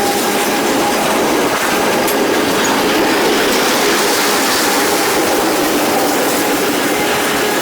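Freight train cars rolling past at trackside, a steady loud rumble and clatter of wheels on the rails.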